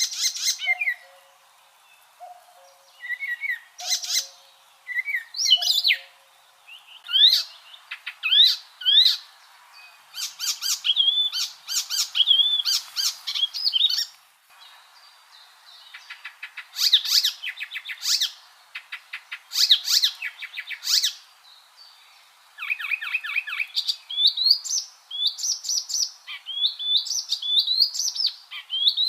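Icterine warbler singing: a fast, varied song of rapid repeated notes, chattering runs and rising whistles, delivered in phrases a second or two long with short pauses between.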